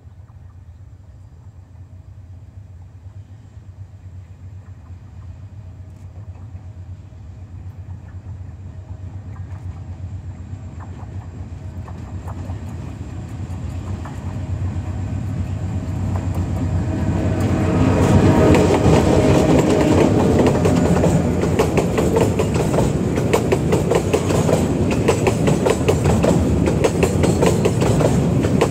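Diesel-hauled container freight train approaching and passing. A low locomotive drone grows steadily louder for about eighteen seconds as it nears, then the flatcars roll by with a loud, steady clickety-clack of wheels over the rail joints.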